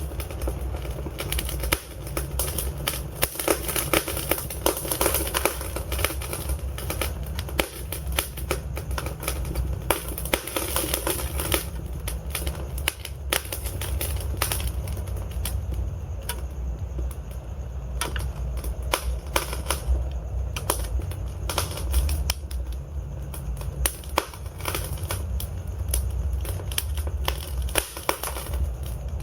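Log fire in a fireplace crackling, with frequent irregular sharp pops and snaps over a steady low rumble of the flames.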